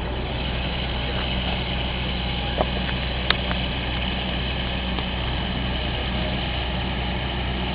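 Truck engine idling steadily, with two short clicks about two and a half and three seconds in.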